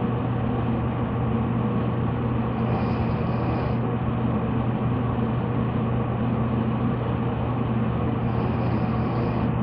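Steady low hum with an even rushing noise, unchanging throughout, as from a running engine or machine.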